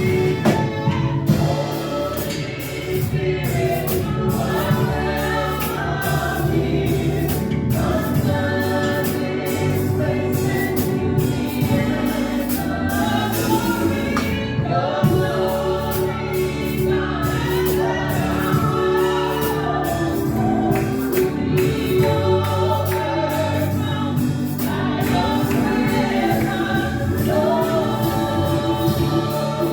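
Praise-and-worship music: a group of singers in a gospel-style song over a steady band accompaniment, with regular drum and cymbal hits.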